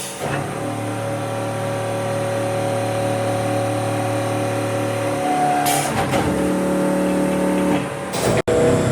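A truck engine running steadily with a constant pitch, the sound changing abruptly twice at cuts between clips.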